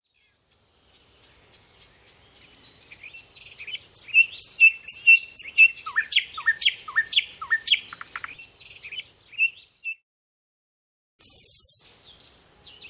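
Songbird singing: rapid high chirps and trills that build up over the first few seconds, with a run of quick downward-sweeping notes in the middle. It stops abruptly about ten seconds in, and a short, high, hissing burst follows.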